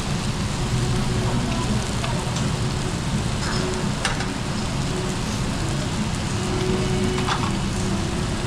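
Food sizzling steadily on a tabletop grill, with a few small clicks and ticks.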